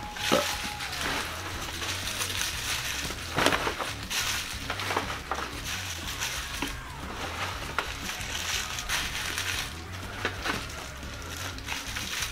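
A person biting into and chewing McDonald's McChicken sandwiches, a steady wet chewing noise broken by irregular crunchy clicks.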